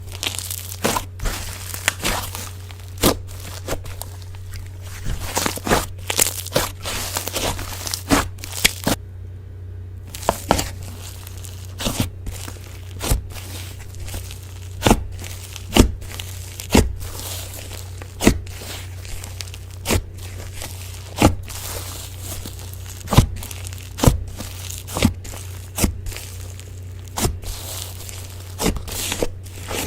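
Slime being squished and pressed, making sharp crackling clicks and pops, often about one a second, over a steady low hum. The sound briefly cuts out about nine seconds in.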